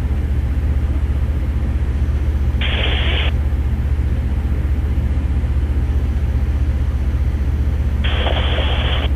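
Steady low engine drone with an even fine pulse, with two short bursts of hiss from a two-way radio keying up without speech, about three seconds in and again near the end.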